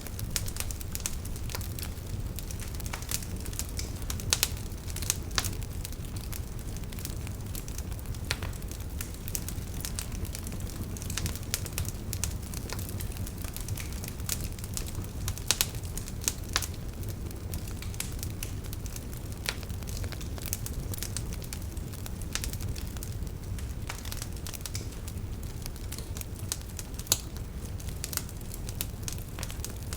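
Wood fire in a fireplace crackling: a steady low rumble of flame with frequent irregular snaps and pops, a few louder ones standing out.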